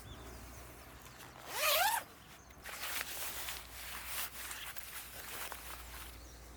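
A zipper pulled once in a quick rising zip lasting about half a second, followed by softer scattered rustles and scuffs.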